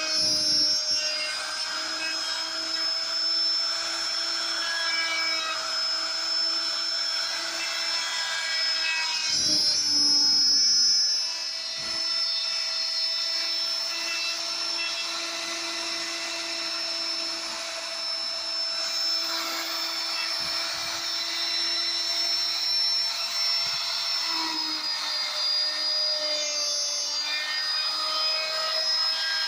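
A high-speed power tool motor running steadily with a whine while carving wood, its pitch dipping slightly under load. It grows louder and rougher for about a second and a half near the middle.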